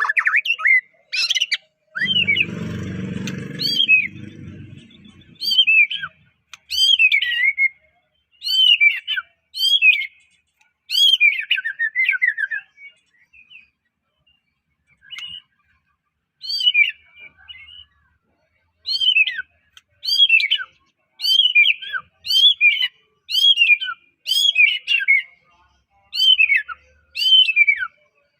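White-rumped shama (murai batu, Medan type) singing: a run of short, loud whistled phrases that sweep downward in pitch, about one a second, breaking off for a few seconds near the middle. A low rumbling noise sounds under the song about two to four seconds in.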